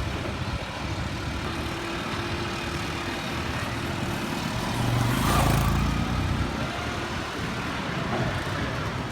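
Motor vehicle engines running steadily, growing louder about five seconds in as a vehicle passes close, then easing back.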